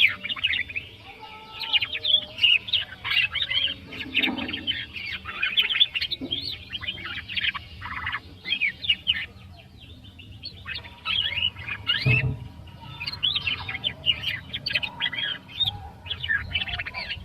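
Canary singing a long, fast warbling song of rapid trills and chirps, with a short pause about ten seconds in.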